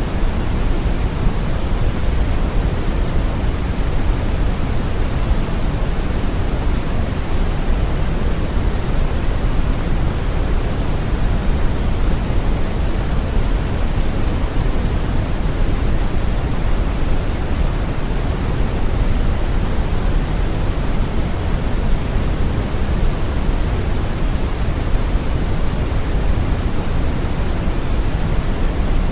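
Steady brown noise: an even, deep rushing hiss, heaviest in the bass and thinning toward the treble, with no change or events.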